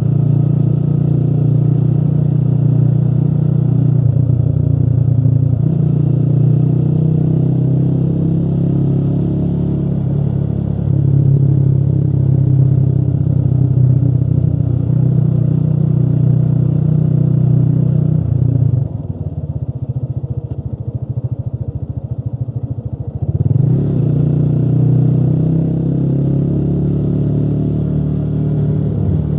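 Motorcycle engine running steadily while riding. A little past the middle it falls to a lower, quieter note for about five seconds, as if off the throttle, then picks up again.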